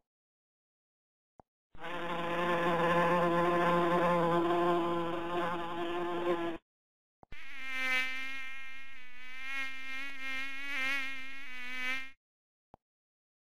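Two recordings of flying insects buzzing, one after the other: first a lower, steady buzz lasting about five seconds, then, after a short gap, a higher, wavering hum of about the same length. A few faint ticks fall in the gaps between them.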